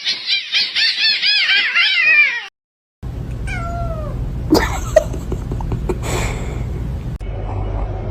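Cat meowing: a fast run of short rising-and-falling cries for about two and a half seconds. After a brief break come two falling meows over a steady low hum, with a few knocks.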